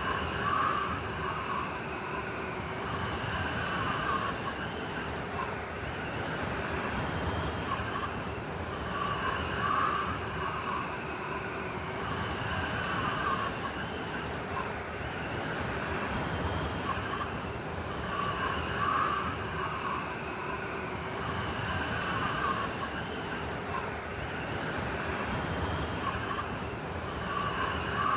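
Blizzard wind howling steadily, with high whistling tones that swell and fade about every nine seconds.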